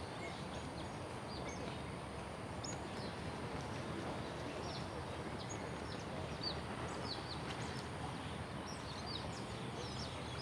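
Small birds giving many short, high chirps, each sliding down in pitch, more of them toward the end, over a steady hiss of background noise.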